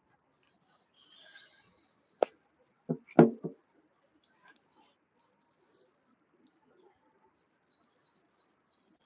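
Small songbirds singing, a run of high chirps and short trills throughout. A few sharp knocks come about two and three seconds in and are the loudest sounds.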